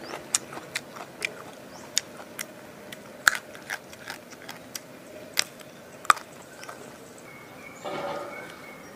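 A person chewing crunchy food, raw pea eggplants, close to the microphone: sharp, irregular crunches and mouth clicks.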